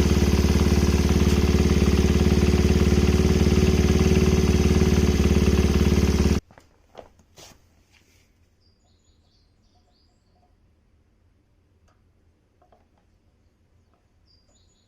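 Honda Ape 50's single-cylinder four-stroke engine running steadily after a year unused, then switched off abruptly about six seconds in. A couple of clicks follow, then quiet with faint bird chirps.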